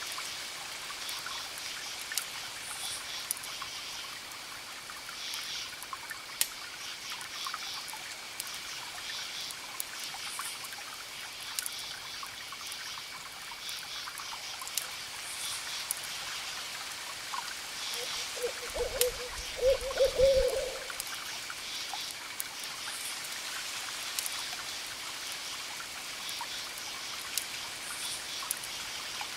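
Wood fire crackling with sharp pops over a steady hiss. About two-thirds of the way through, an owl hoots a short series of low notes, the loudest sound here.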